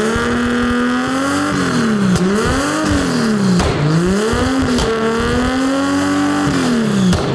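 Turbocharged 2JZ straight-six of a 1000 hp Formula Drift car, its exhaust stuffed with cheap turbo-whistle inserts, revved hard and held high. The revs dip and climb again several times, with a few sharp anti-lag pops, and drop back toward idle near the end.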